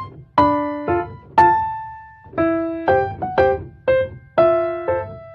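Background music: a slow piano melody of single notes struck about every half second, each ringing out and fading.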